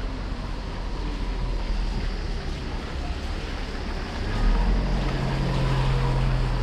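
Steady rain falling. About four seconds in, a vehicle's engine comes in as a steady low hum and grows louder.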